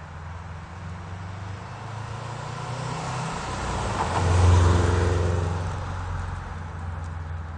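2012 Subaru WRX's turbocharged flat-four engine and exhaust running, the note building to its loudest about four and a half seconds in and then easing off.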